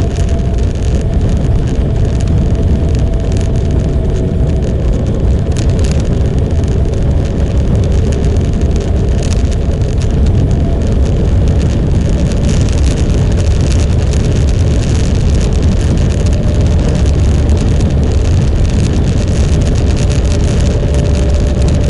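Motorcycle on the move at a steady speed: a constant loud rush of wind and road noise with a low rumble, and a faint engine tone holding nearly steady beneath it.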